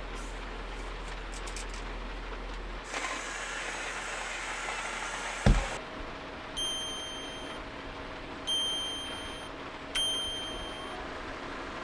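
A few seconds of hissing and a thump, then a small electric appliance hums steadily and gives three electronic beeps, each fading away, about a second and a half apart. Steady rain noise runs underneath.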